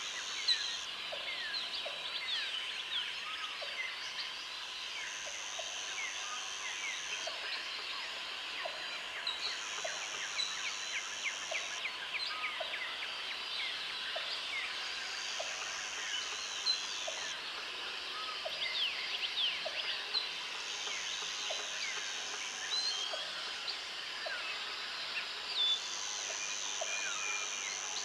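Jungle ambience: a dense chorus of many birds calling and chirping, with an insect's high buzzing trill that sounds for about two seconds every five seconds. Under it, a short low note repeats steadily about once a second.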